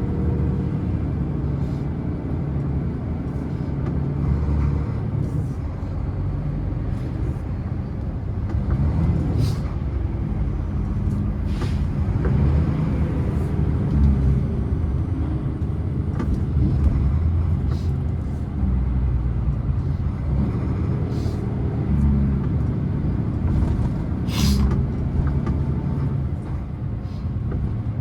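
Scania truck's diesel engine running while the truck descends a long mountain grade, a steady low rumble. A few short hisses break in now and then, the clearest about halfway through and near the end.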